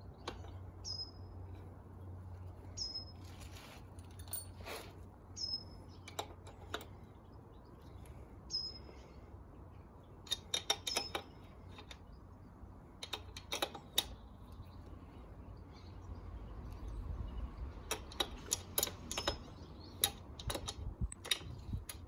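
A small bird chirping, short high notes with a falling hook every two to three seconds, mostly in the first half. Clusters of light clicks and taps from hand work on the motorcycle's rear wheel adjuster come a little past halfway and again near the end.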